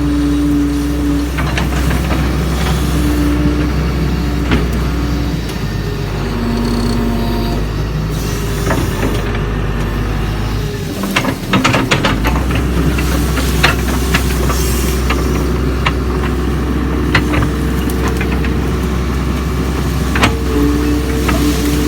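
Doosan DX140 excavator's diesel engine running steadily under work, with a higher droning tone that comes and goes and scattered sharp knocks and clanks. About halfway through the engine note dips briefly, then picks up again.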